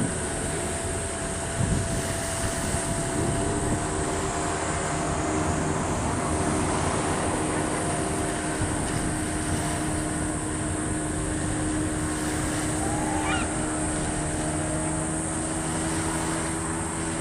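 A boat engine running steadily, a drone with a few held tones, under wind noise on the microphone. About 13 seconds in there is a short rising whistle-like call.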